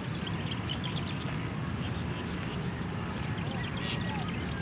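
Faint scattered bird chirps over a steady low outdoor rumble, with a brief faint squawk near the end.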